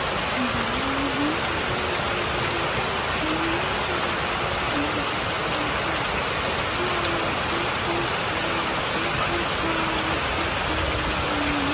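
Heavy rain falling steadily, heard through an open window as a dense, even hiss. A soft, low tune of held notes that step up and down runs over it, with short breaks between the notes.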